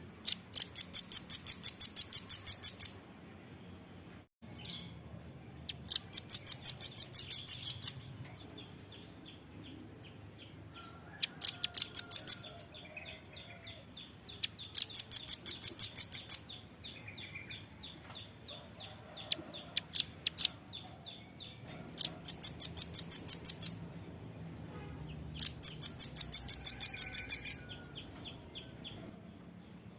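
Velvet-fronted nuthatch calling: runs of sharp, high, evenly spaced chipping notes, about five a second, each run lasting one to three seconds, repeated about six times with short pauses.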